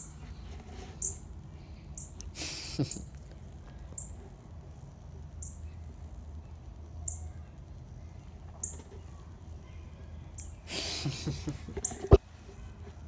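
A small bird chirping again and again, short high falling chirps about every second or so. Rustling handling noise comes twice, and a sharp click near the end is the loudest sound.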